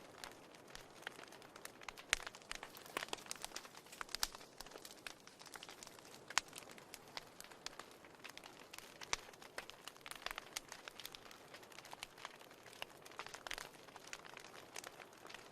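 Fire burning in a fireplace, crackling with frequent irregular sharp pops and snaps over a soft hiss.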